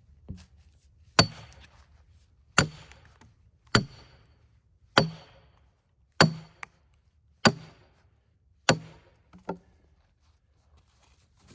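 A hammer driving a metal wedge into a cedar log to split it into rails: seven hard, ringing blows, evenly spaced a little over a second apart, with a lighter tap after the last.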